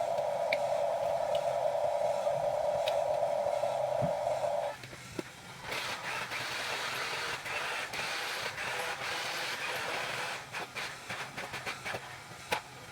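Huina 1550 RC excavator's electric motors and gearboxes whirring steadily, stopping abruptly a little under five seconds in. After a short pause a harsher hiss follows for about four seconds, then a run of clicks.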